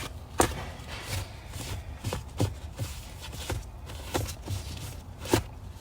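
Irregular sharp knocks and handling noises, about seven in all, as objects are moved about and set down.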